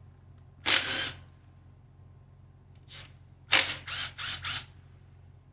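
Hand ratchet wrench clicking as it is swung back and forth on small 8 mm bolts: one short run of clicks, then four quick strokes in a row a few seconds later.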